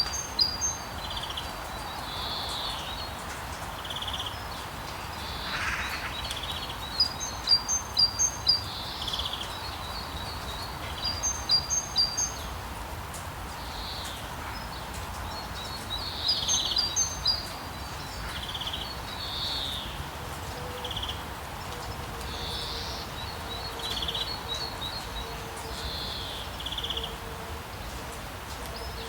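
Rainforest ambience: a steady hiss of rain with birds calling over it. The loudest sounds are quick runs of four or five high chirps that repeat every few seconds, mixed with other softer bird calls.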